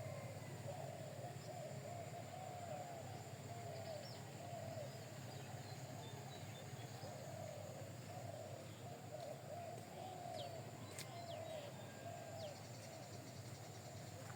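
Birds calling: a continuous run of short, repeated low arching calls, with faint higher chirps and a steady low hum underneath.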